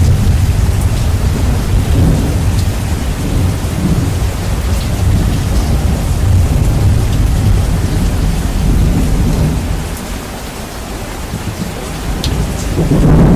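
Steady rain with rolling thunder, heavily bass-boosted so that the deep rumble dominates. The rumble eases about ten seconds in, then swells again near the end.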